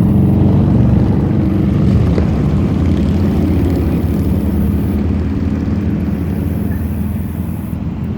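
An engine running loudly with a steady, low, pulsing rumble that eases off slightly toward the end.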